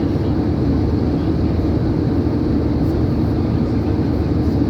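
Steady low roar of an airliner heard from inside the cabin in flight, even and unchanging in level.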